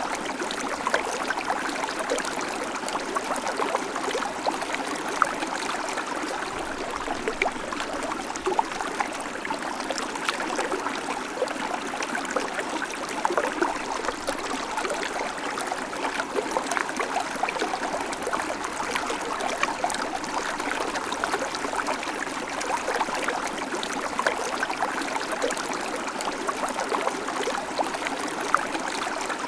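Small babbling creek, water running and splashing steadily over stones with many small gurgles and drips.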